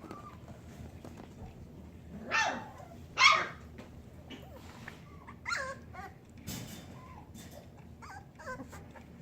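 Young puppies, eyes just open, yipping and whimpering: two sharp, high-pitched yips about two and three seconds in, the second the loudest, followed by several softer whimpering cries.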